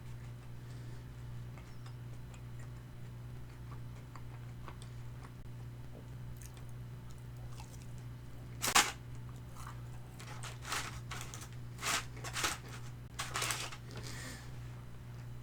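Close-up crunching and chewing of crispy Korean fried chicken: a loud first crunch about nine seconds in, then a run of crunchy bites and chews over the next five seconds. A steady low hum sits underneath.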